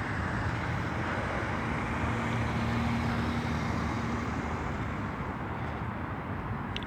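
Steady background traffic noise, with a faint steady hum for a few seconds in the middle.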